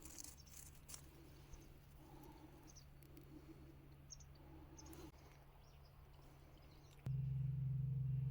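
Faint, scattered bird chirps over a steady low hum. About seven seconds in, a much louder steady low drone cuts in abruptly.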